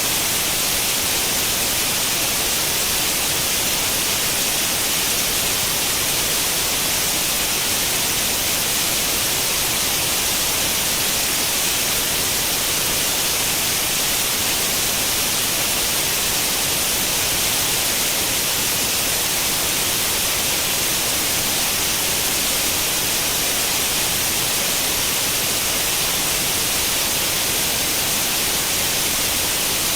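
Steady, unchanging white noise imitating the static hiss of an old tube television tuned to no channel, strongest in the upper treble.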